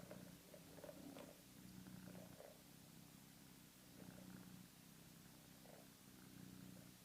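Domestic cat purring faintly, the purr swelling and fading in cycles about every two seconds with its breathing.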